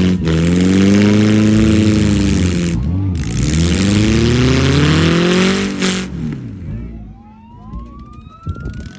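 A derby vehicle's engine revving hard, its pitch rising and falling in repeated surges with a heavy rasping exhaust, cutting out briefly about three seconds in. About six seconds in it drops away, leaving a fainter gliding tone.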